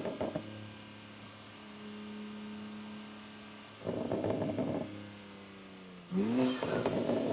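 BMW G87 M2's twin-turbo straight-six, with a Valvetronic midpipe and its exhaust valves open, running at low revs with a steady drone. It breaks into louder, rougher throttle bursts about four seconds in and again about six seconds in, the second opening with a quick rise in revs.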